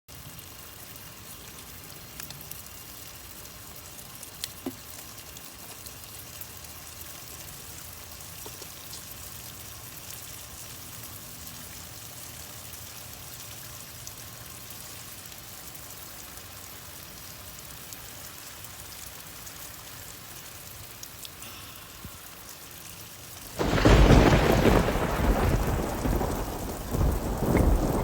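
Steady rain falling, then a sudden loud thunderclap about 24 seconds in that rumbles on and swells again near the end.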